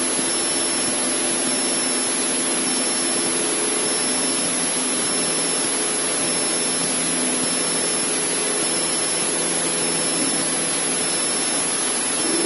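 Cessna 152's four-cylinder Lycoming engine and propeller running at steady power in flight, heard inside the cabin as a constant drone under rushing airflow noise.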